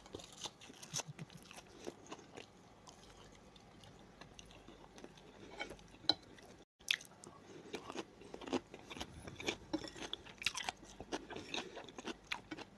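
A person chewing a mouthful of green onion and bulgur close to the microphone, with soft irregular crunches and mouth clicks. The audio drops out for an instant about halfway through.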